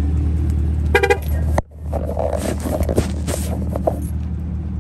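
Straight-piped Camaro SS's 6.2-litre V8 idling with a steady low rumble. About a second in comes a short horn beep, then the sound drops out abruptly for a moment and returns with a few clicks and knocks over the idle.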